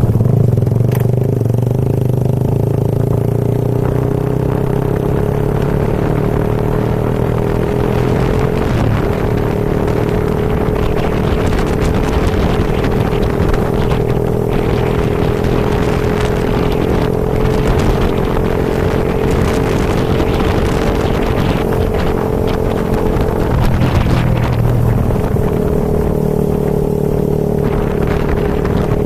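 Motorcycle engine running at a steady riding speed, with the engine note easing off briefly near the end. Wind and rain rush loudly over the microphone throughout.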